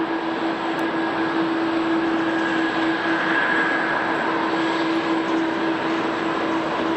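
Airliner jet engines running steadily: a continuous rushing noise with a steady whine held through it.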